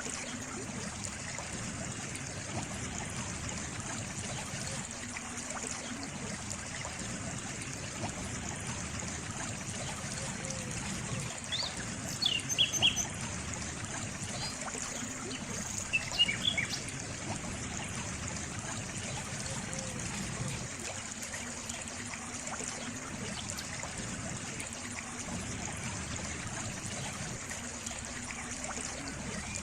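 Water trickling steadily, like a small stream. A bird gives short, high chirps twice near the middle.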